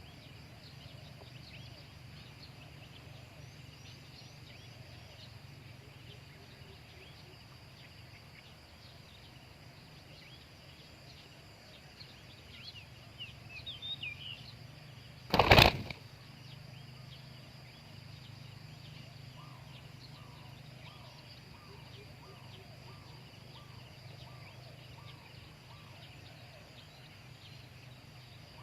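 Quiet outdoor background with faint small-bird chirps. About halfway through comes a sudden, brief flurry of wing flapping. Later, a faint, evenly spaced run of spotted dove coo notes begins.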